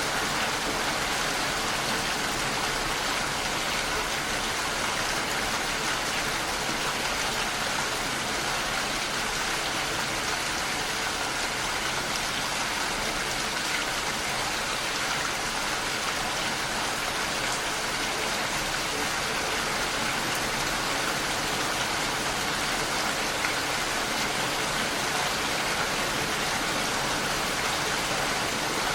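Steady heavy rain, an even hiss of many drops that stays level throughout.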